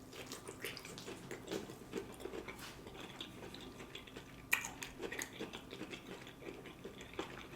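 Close-up chewing and mouth sounds of someone eating a soft stuffed bell pepper: irregular soft smacks and clicks, with a sharper one about four and a half seconds in.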